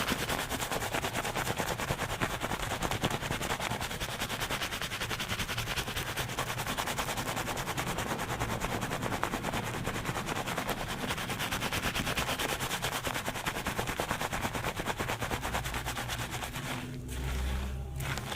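Fingers scrubbing a lathered scalp at high speed during a shampoo, a fast, even rhythm of many squishing strokes a second. The scrubbing breaks off near the end.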